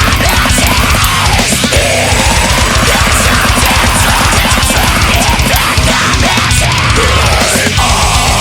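Heavy metal music: fast, dense drumming and distorted guitars with gliding lead lines, loud and steady.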